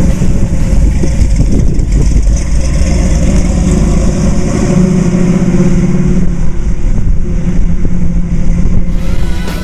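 Rebuilt 350 small-block V8 in a 1971 Chevy Nova SS running under way, with the engine note strengthening around the middle, over a steady rush of road and wind noise.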